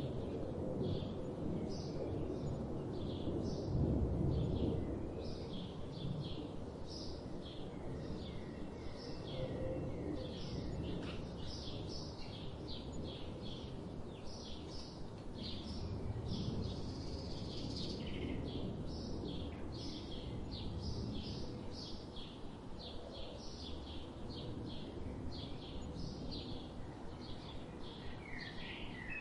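Small birds chirping: short high calls repeating a few times a second throughout, over a steady low background rumble that swells briefly about four seconds in.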